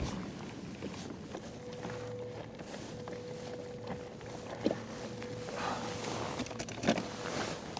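Water washing against a fishing kayak's hull, with a couple of light knocks. A faint steady hum comes in about one and a half seconds in.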